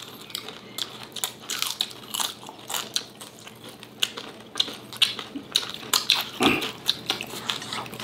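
Close-up mouth sounds of people eating: chewing and lip-smacking, a steady stream of short, irregular wet clicks.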